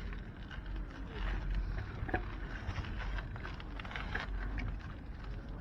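Wind rumbling on the microphone of a bicycle being ridden, with road noise and scattered small rattles and clicks from the bike.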